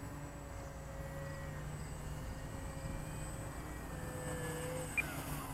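Electric motor of an E-flite Timber RC plane whining faintly at low throttle on its landing approach, its pitch dipping slightly near the end, over a low rumble of wind.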